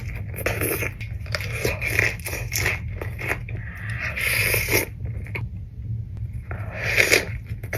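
A person eating close to the microphone: irregular bites and chewing of crunchy food, over a steady low hum.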